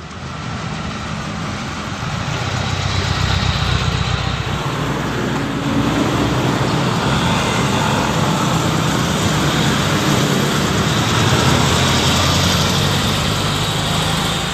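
Volkswagen Beetle's air-cooled 1600 flat-four engine running, picking up over the first few seconds and then holding steady.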